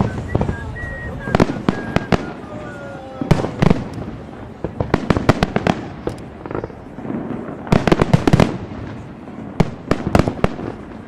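Professional fireworks display: rapid sharp bangs of bursting shells, coming in clusters of several at a time every second or two.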